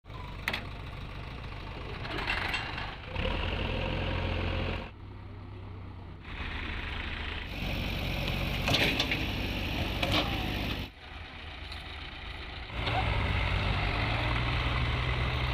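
Diesel tractor engine running, with the sound changing abruptly several times as clips switch.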